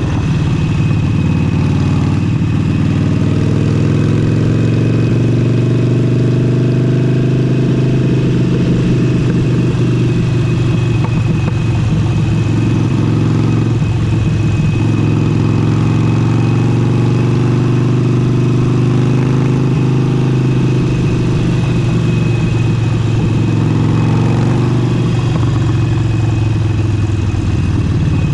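Harley-Davidson Forty-Eight's air-cooled V-twin running steadily through an aftermarket exhaust during a ride, its note rising and falling gently with the throttle. Wind noise on the camera microphone, whose foam cover was not checked.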